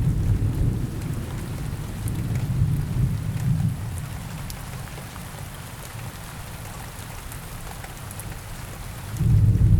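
Steady rain falling, with a low roll of thunder rumbling through the first few seconds and fading, and another roll beginning near the end.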